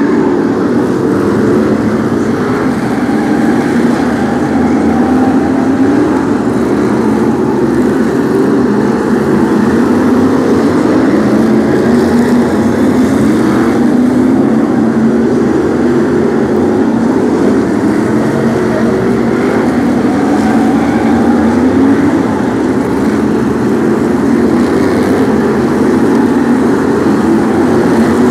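A pack of V8-engined BriSCA F1 stock cars racing round the oval. The loud, steady mass of engine noise has many engines revving up and easing off over each other, lap after lap.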